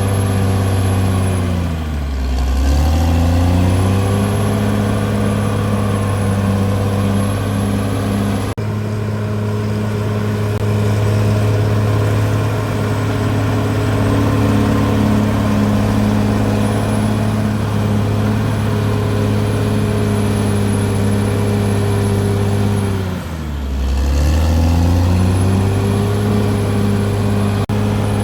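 CAT D6R bulldozer's diesel engine running hard and steady. Its speed sags and recovers twice, about two seconds in and again about twenty-three seconds in, with a thin high whine above it.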